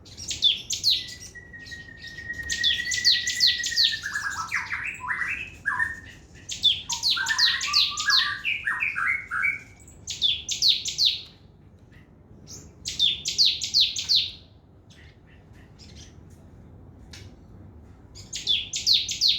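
A sogon trotol singing in a fast, lively way: repeated bursts of rapid, high chattering trills. Between the first few bursts there is one long, steady whistle and then a run of lower, warbled notes.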